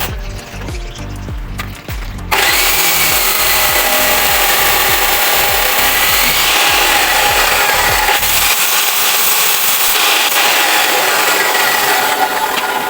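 A power tool starts abruptly about two seconds in and runs loud and steady under load. It is heard over background music that has a steady beat.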